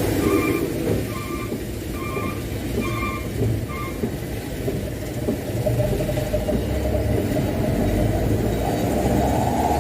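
Mitsubishi Canter dump truck's diesel engine and road rumble heard from inside the cab while driving. A short electronic beep repeats about one and a half times a second for the first four seconds. Near the end the engine note climbs as the truck speeds up.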